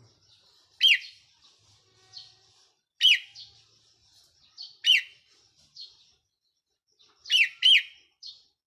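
Red-whiskered bulbul, a caged decoy bird, calling: loud, sharp notes that each sweep steeply downward, repeated about every two seconds with a quick double near the end, and softer chattering notes between them.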